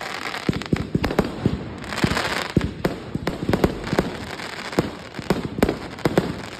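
Fireworks going off: a rapid string of sharp bangs, with a hiss of noise swelling about two seconds in.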